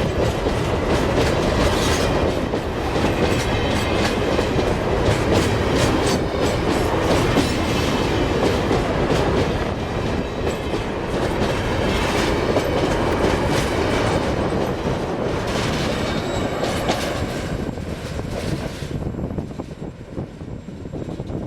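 A long freight train's wagons rolling past at trackside, wheels clacking steadily over the rail joints with a dense, loud rumble. About 19 seconds in, the sound drops away as the last cars go by.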